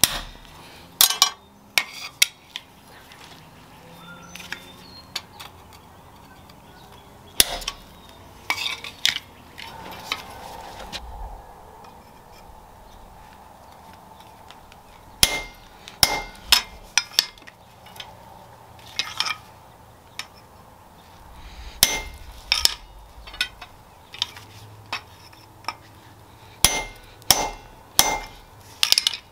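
Scattered sharp metal knocks and clinks from hand tools at work on metal, coming in small irregular clusters with pauses between.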